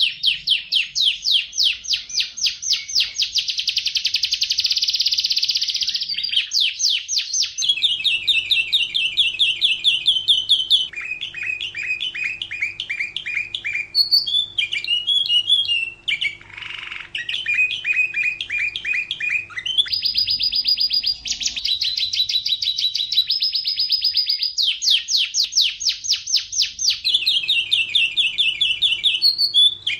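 Domestic canary singing continuously: rapid trills of quickly repeated notes, switching to a new repeated phrase every few seconds.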